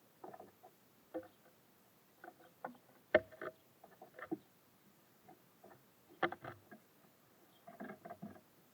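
Irregular taps and knocks of small birds pecking at seed and hopping about on a bird feeder, in short clusters, the loudest about three seconds in and again about six seconds in.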